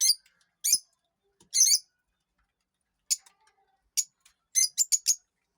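Parrot giving about nine short, high-pitched chirps in a loose series, with a pause in the middle and a quick run of four near the end.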